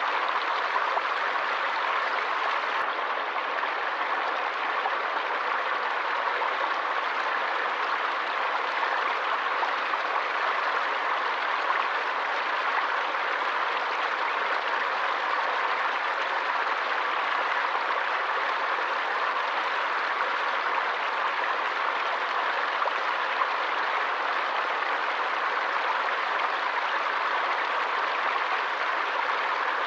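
Forest stream of running water rushing steadily, an even hiss of water with no distinct splashes or drops standing out.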